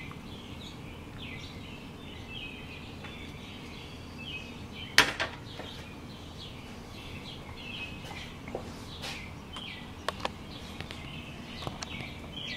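Small birds chirping repeatedly over a steady background noise, with a sharp metal clack about five seconds in as the stainless percolator pot is set back down on the camp stove.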